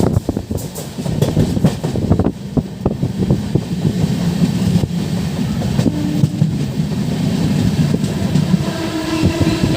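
Passenger train running along the track: a steady rumble of the wheels and carriage, with irregular clicks and clatter from the rails.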